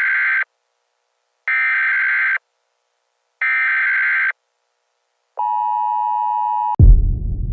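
Three electronic beeps, each just under a second long and about two seconds apart, followed by a longer, lower-pitched tone that gives way to a deep low rumble near the end.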